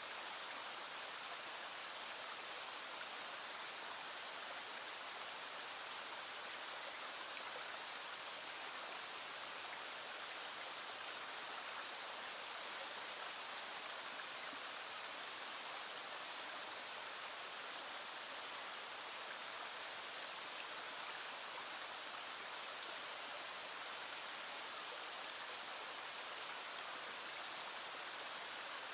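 Small stream flowing: a steady, even rush of water with no break or change.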